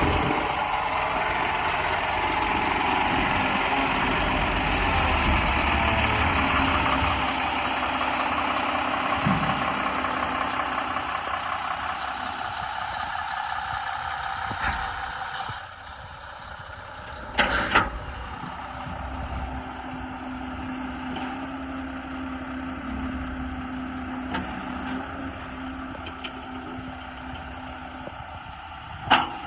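Mack GU713 dump truck's diesel engine running steadily. It drops to a lower level about halfway through, and two brief sharp noises cut in, one a little past the middle and one at the end.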